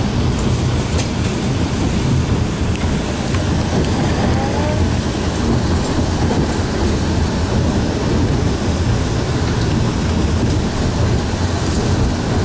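Alishan Forest Railway passenger coach running along narrow-gauge track, heard from inside the carriage: a steady rumble of wheels on rail.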